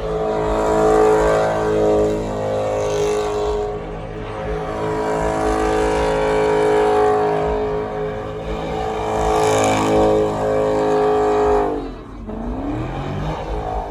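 A car engine held at high revs for about twelve seconds, surging and dipping a little, then dropping off as the revs fall near the end.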